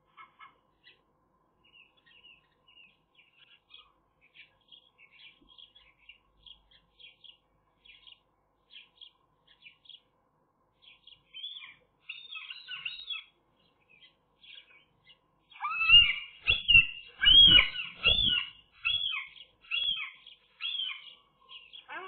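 Birds chirping in short high calls, sparse and faint at first, then louder and dense from about two-thirds of the way through, with a few low thumps among them.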